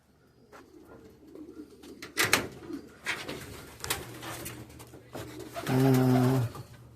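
Pigeons cooing, with one low drawn-out coo near the end, among scattered knocks and rustles.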